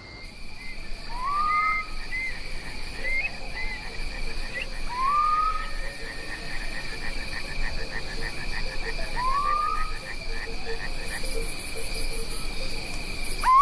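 Natural ambience of insects trilling steadily. A short rising call comes three times, about four seconds apart, over a fast pulsing chirping.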